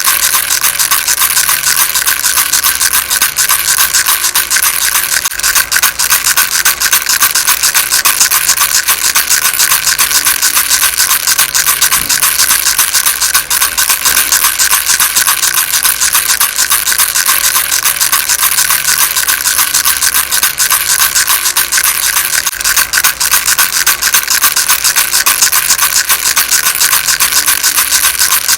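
Baby rattle shaken nonstop: a dense, steady stream of small, high-pitched rattling clicks.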